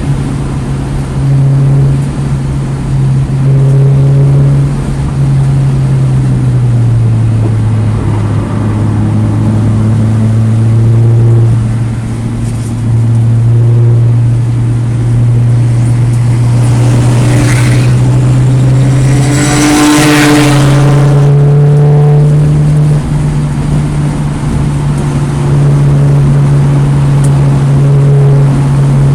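A 2009 Mini Cooper S's turbocharged 1.6-litre four-cylinder engine running hard on a race track. Its note drops lower for a long stretch and then climbs back. A harsh rushing noise flares up for a few seconds about two-thirds of the way through.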